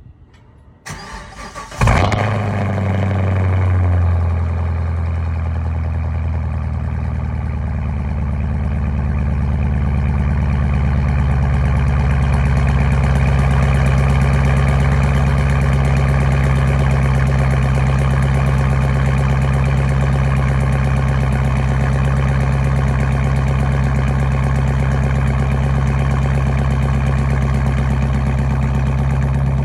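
Chevrolet Camaro engine cold-started: the starter cranks briefly, the engine catches with a loud flare about two seconds in, then settles within a couple of seconds into a steady idle.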